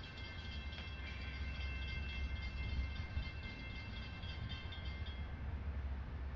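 CSX mixed freight train running past with a steady low rumble. Faint high ringing tones sit above it and fade out about five seconds in.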